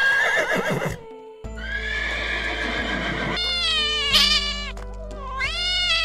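Horse whinnying: a long high call that breaks into a quavering whinny, and another whinny near the end, over background music.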